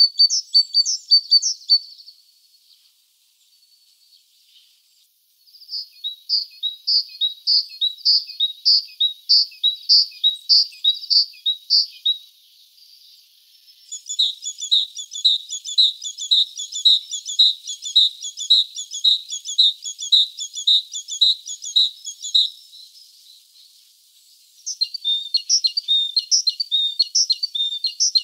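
Birds chirping: runs of short, high chirps at about three a second, each run lasting several seconds, with brief pauses between runs.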